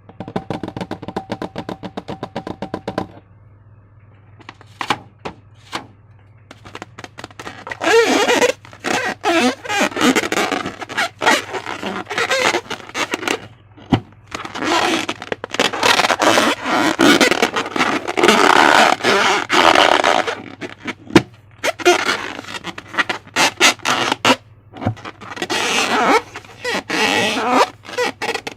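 Slime being squished and worked by hand, making sharp clicks and bursts of wet crackling that come and go over a steady low electrical hum.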